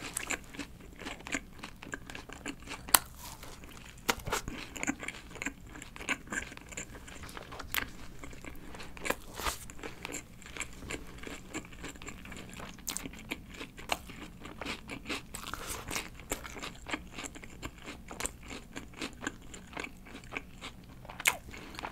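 Close-miked eating: a bun burger with lettuce and onion being bitten and chewed, with many small, irregular crunches and wet mouth clicks.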